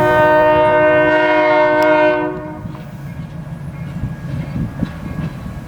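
EMD GP-7 diesel locomotive's multi-note air horn sounding one long blast that cuts off a little over two seconds in, leaving the low running of the locomotive's diesel engine.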